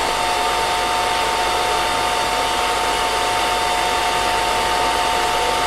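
Hair dryer running steadily on: an even rush of blown air with a steady high motor whine.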